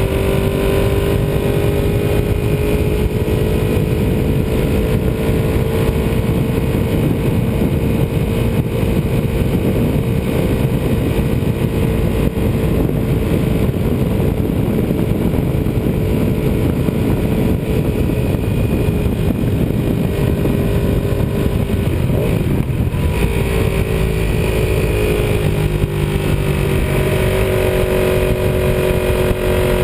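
Ducati 748R's 90-degree V-twin engine running at steady road speed under heavy wind rush. About 22 seconds in, the engine note drops away briefly, then comes back and climbs.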